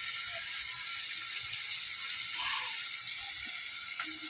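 Steady sizzling of tomatoes and spices frying in oil in a steel pot on a gas stove.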